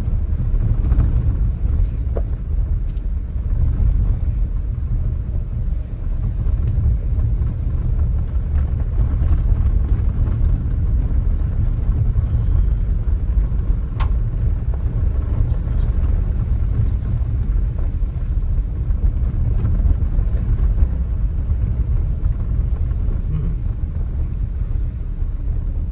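Steady low rumble of a car driving, with one sharp click about fourteen seconds in.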